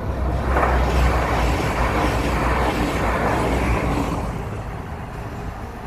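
Passenger train passing close by: a rushing rumble over a deep low drone that swells about half a second in and fades over the last two seconds.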